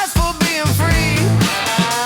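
Rock band instrumental: a lead electric guitar plays a melody of bending, sliding notes over drums and bass.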